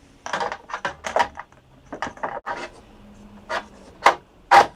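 A rapid, irregular series of hard plastic clicks, taps and knocks from an RV air conditioner's filter and its clip-in cover being handled by hand, with the loudest knock near the end.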